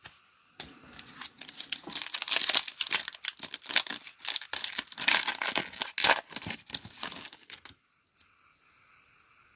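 Plastic wrapper of a trading card pack being torn open and crinkled, a dense run of rapid crackles that stops abruptly near the end.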